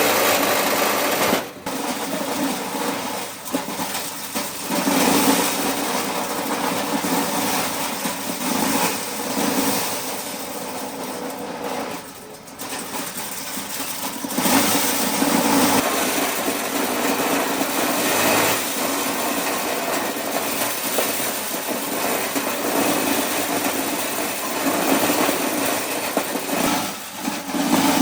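Engine-driven corn shelling machine running continuously, its level rising and falling, with brief dips about a second and a half in and about twelve seconds in.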